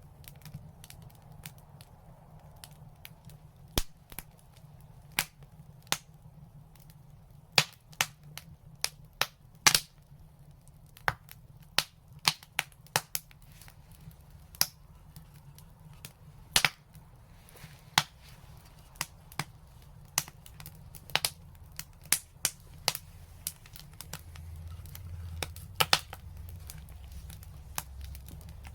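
Wood fire crackling in a brick fireplace: irregular sharp pops and snaps, some loud, over a low steady rumble of the flames that grows a little louder near the end.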